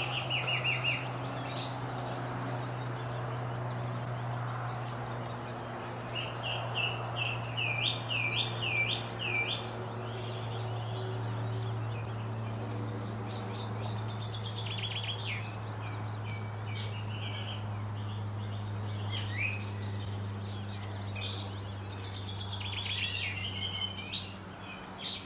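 Small woodland birds chirping and singing in short phrases, with a run of quick repeated notes about six seconds in, over a steady low hum.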